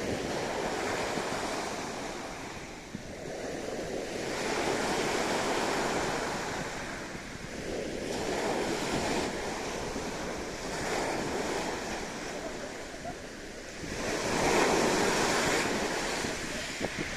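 Sea waves breaking and washing up the beach, the surf swelling and fading every few seconds, with wind on the microphone.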